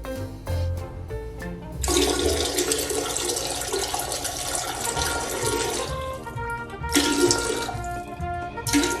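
Background music, with a loud rush of noise like running or flushing water starting about two seconds in and lasting about four seconds. Two shorter rushes follow near the end.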